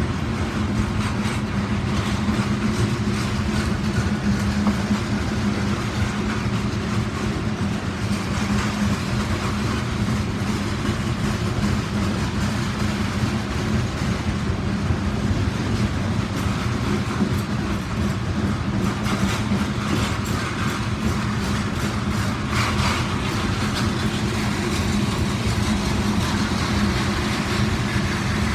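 Norfolk Southern freight train, loaded trash cars, rolling steadily past: a continuous rumble of wheels on rail with a steady low hum underneath.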